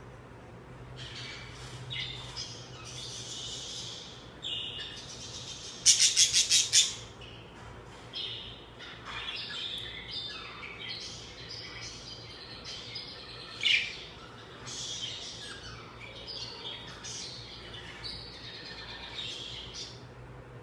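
Budgerigar warbling and chattering in a continuous twittering song, with a burst of loud, rapid harsh notes about six seconds in and a single sharp squawk a little past the middle.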